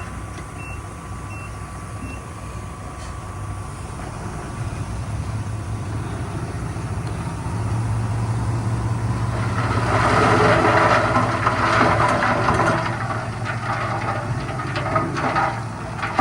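Diesel dump truck's reversing beeper sounding over its running engine for about the first two seconds. The engine grows louder about halfway through, and from about ten seconds in a loud rushing, clattering noise takes over.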